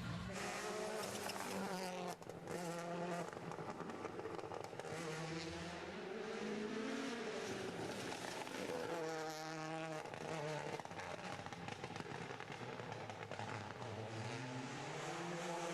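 Rally car engine revving hard, its pitch climbing and dropping again and again as it accelerates and brakes through a stage, with a brief dip about two seconds in.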